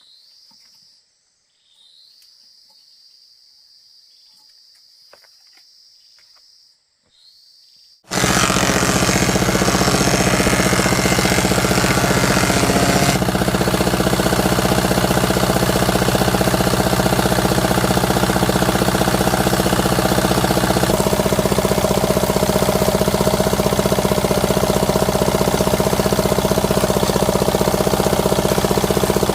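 Insects buzzing steadily for about eight seconds, then a loud motor-driven machine, typical of a woodworking power tool, starts abruptly and runs steadily, its tone shifting twice.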